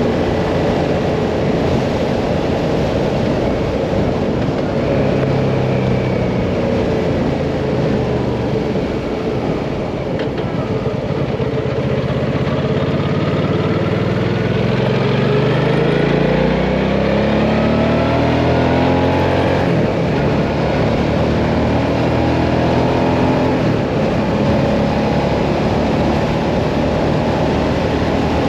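Hyosung Mirage 650 V-twin motorcycle engine under way on the open road, with wind rush over it. The engine pitch drops about a third of the way in, then climbs steadily for several seconds as the bike accelerates, and levels off near the end.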